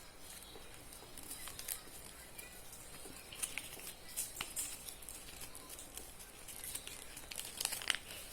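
A square sheet of paper being folded and creased by hand: faint, scattered crinkles and rustles.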